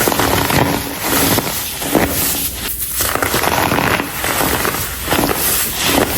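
Dyed compressed baking soda being crumbled, crunching and crackling in uneven bursts, with a brief lull just before the middle.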